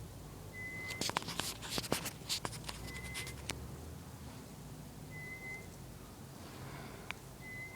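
Faint, steady low rumble from the sky, like a distant jet or drone, though no aircraft is in sight. A short high-pitched tone sounds about every two seconds, four times in all. Crackling handling noise comes about a second in.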